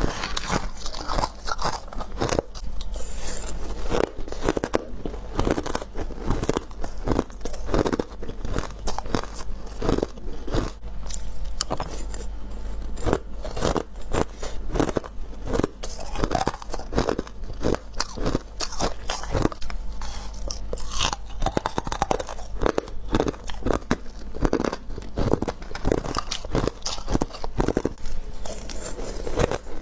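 Close-up crunching as a person bites and chews frost and ice shavings from a freezer, many bites in quick irregular succession, over a steady low hum.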